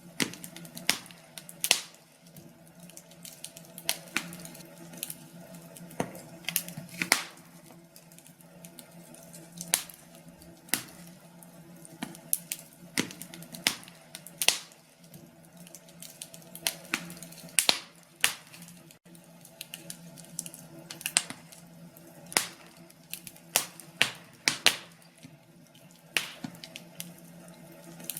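Log fire crackling, with irregular sharp pops and snaps, several a second, over a low steady hum.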